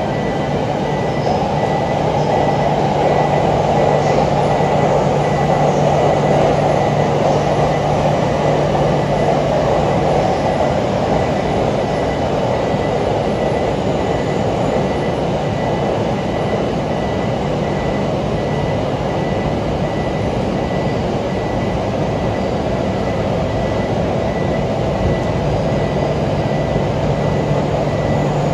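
Electric commuter train running through the station, a loud steady rumble that swells a few seconds in and eases off. A thin high tone and a low electrical hum run with it; the hum drops away in the middle and returns near the end.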